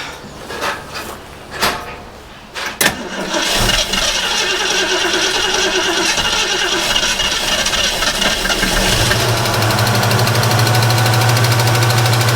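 The 1967 Mustang's engine is started and runs, settling into a louder, steady run about nine seconds in. A few sharp knocks come before it.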